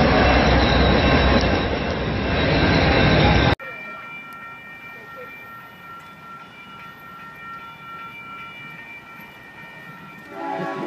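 A train passing close by with a loud, steady rush of wheel and rail noise. It cuts off abruptly about three and a half seconds in, leaving a much quieter stretch with a few faint, steady high tones. Music comes in near the end.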